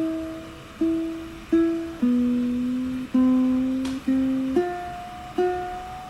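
A plucked string instrument playing a slow melody of single notes. There are about eight notes, each starting sharply and ringing out before the next.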